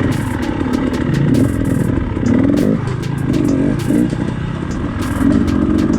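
Dirt bike engine revving up and down repeatedly as it picks its way over rough ground, with scattered knocks and clatter.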